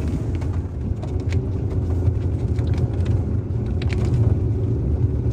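Car cabin road noise: a steady low rumble of engine and tyres while driving, with faint ticks here and there.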